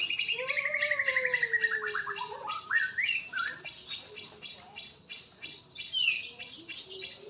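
White-rumped shama (murai) singing: a long pulsed trill that falls in pitch, then a few short rising notes, over a fast, even high chatter.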